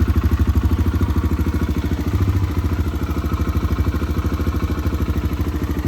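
2009 Kawasaki KLX140L's air-cooled single-cylinder four-stroke engine idling with a steady, even beat, just started for the first time after sitting about two years, and running well.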